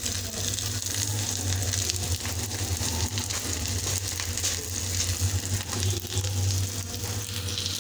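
Potato patties dipped in egg shallow-frying in oil on a hot iron tawa, sizzling steadily with fine crackles and spits, over a steady low hum.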